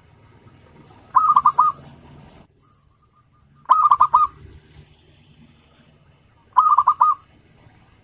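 Zebra dove (perkutut) cooing: three short phrases a few seconds apart, each a quick run of four or five clear notes.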